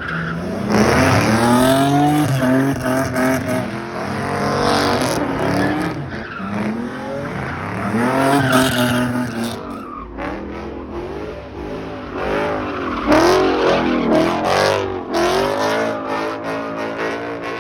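A high-powered car engine revving up and falling back over and over, with tires squealing and skidding, as in a burnout or drifting in a pit.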